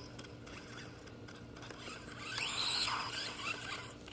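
Electric motor of a radio-controlled truck whining briefly about two seconds in, its pitch rising and falling, over faint background noise.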